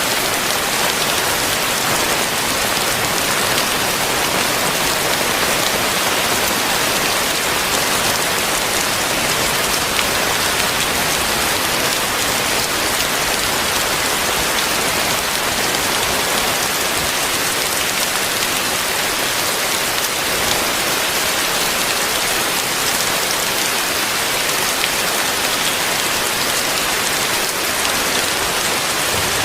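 Heavy rain falling and pattering on surfaces, a dense, steady hiss with no let-up.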